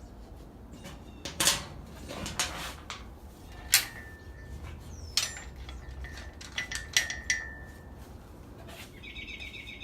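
Steel washers and nuts clinking and tapping as they are fitted by hand onto the bolts of a boat winch bracket, a scatter of light metallic clicks with a brief faint ring now and then.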